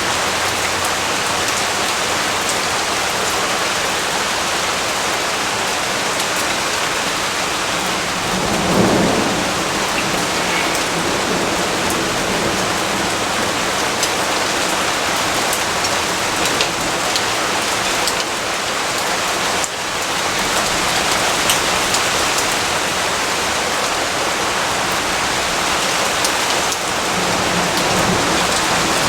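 Steady, heavy rain pouring down in an even hiss, with a brief low rumble about nine seconds in.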